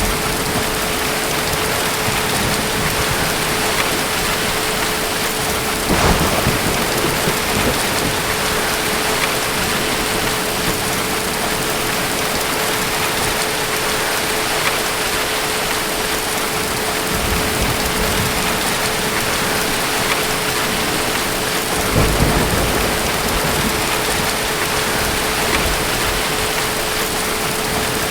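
Steady heavy rain, with low thunder rumbles breaking in several times, the longest about three-quarters of the way through. A faint steady hum runs under the rain.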